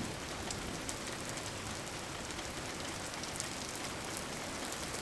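Steady rain: an even hiss with scattered ticks of individual drops.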